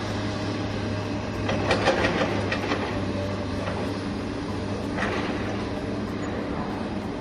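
Steady mechanical hum with rattling clatter, heaviest between about one and a half and three seconds in and again about five seconds in.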